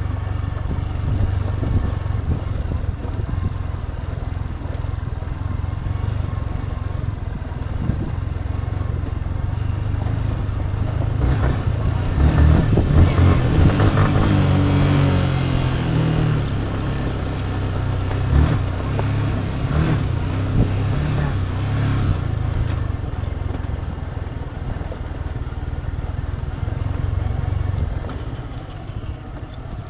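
Yamaha MT-15's single-cylinder engine running on the move. About twelve seconds in it gets louder and its note climbs for a few seconds, then it settles back to a steady run.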